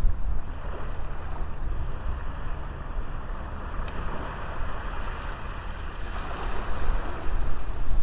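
Sea waves breaking and washing on the shore, with wind buffeting the microphone; the surf swells louder about six seconds in.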